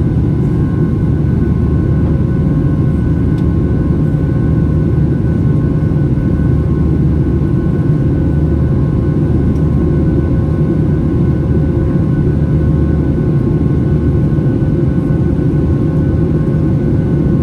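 Steady cabin noise inside a Boeing 737-800 in flight: a loud, even rumble of its CFM56 engines and the airflow, with a few constant hums above it.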